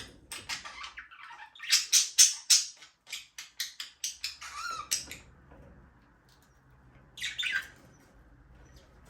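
Budgerigars chirping and chattering in quick, sharp bursts, loudest about two seconds in. The chatter dies down about five seconds in, and one more short burst comes about two seconds later.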